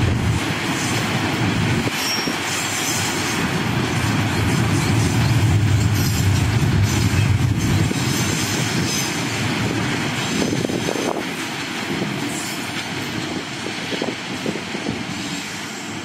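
Freight train of Pertamina fuel tank wagons rolling past, a steady rumble and clatter of wagon wheels on the rails that fades in the last few seconds as the end of the train goes by.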